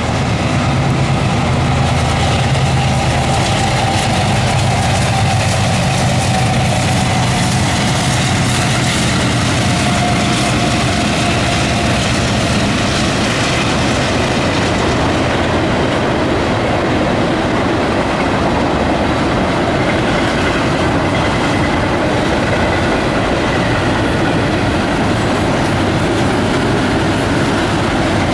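CSX intermodal freight train rolling past: a steady diesel locomotive hum, strongest in the first half, under a continuous rumble and clatter of double-stack container cars' wheels on the rails.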